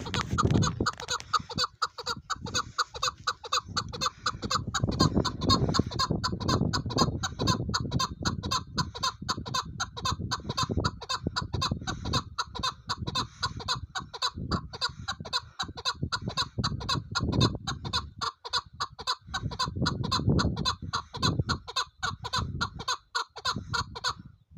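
Chukar partridge calling, a rapid, evenly repeated clucking call at about three notes a second, over a low rumble; it stops abruptly near the end.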